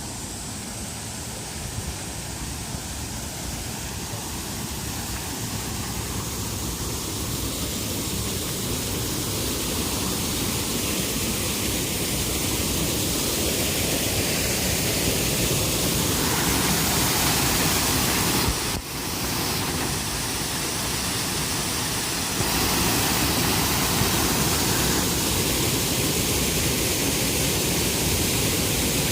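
Waterfall: a steady rush of falling water that grows louder over the first fifteen seconds or so, with a brief dip in level about two-thirds of the way in.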